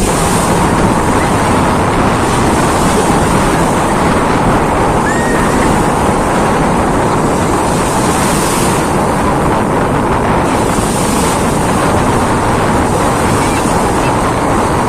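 Fast-flowing mountain river water rushing, a loud, steady wash of noise.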